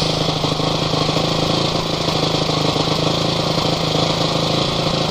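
Off-road motorcycle engine idling steadily, its pitch and level holding even with no revving.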